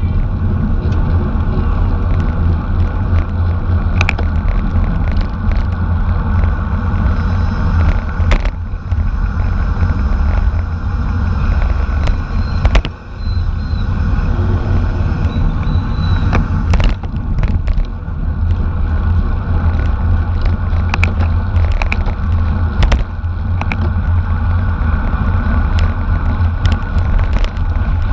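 Wind rushing and buffeting over the microphone of a moving bicycle, a steady low rumble, with scattered sharp clicks and knocks from the bike.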